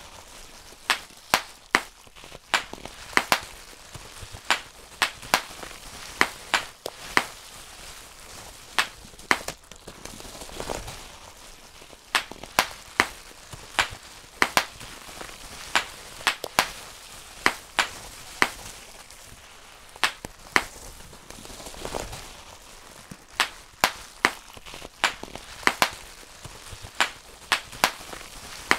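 Bubble wrap being popped by hand, bubble by bubble: sharp pops at an uneven pace of roughly one to two a second, with a soft rustle of the plastic between them.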